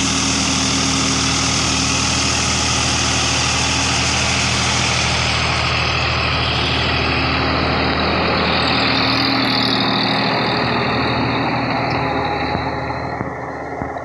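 Sonalika DI 50 RX tractor's diesel engine running steadily, its sound growing duller and fading away over the last couple of seconds.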